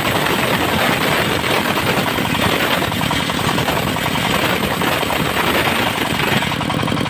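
Diesel-powered circular sawmill cutting mahogany: a loud, rattling saw-and-engine noise. About six and a half seconds in, the cut ends and the diesel engine is left running steadily on its own.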